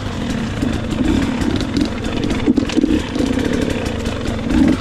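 Dirt bike engine running under rising and falling throttle, with scattered clattering knocks.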